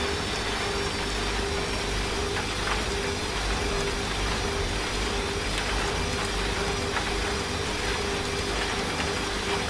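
Washing machine running steadily, a low motor rumble and hum with a faint steady whine, mixed with the even hiss of rain.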